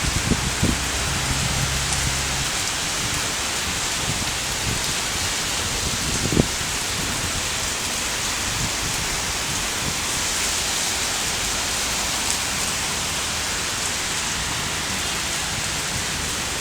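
Rain falling steadily, an even hiss, with a faint low hum at the start and again near the end and a single short knock about six seconds in.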